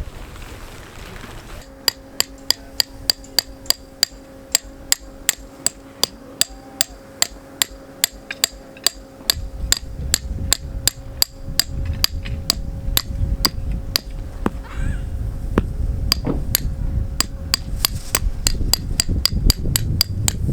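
A hammer repeatedly driving a metal tent peg into the ground, about two blows a second, each strike ringing with a metallic ping. The peg ends up driven in too far.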